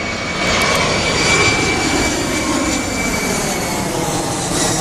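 Jet engines of an Airbus airliner landing in a crosswind: a steady rushing jet noise with a thin high whine over it, loudest about a second in.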